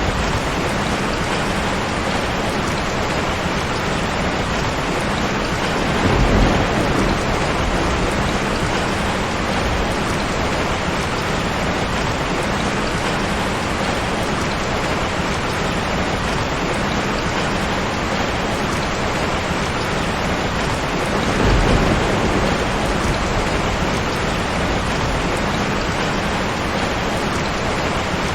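Steady heavy rain hissing without a break, with two short low rumbles of thunder, one about six seconds in and another about two-thirds of the way through.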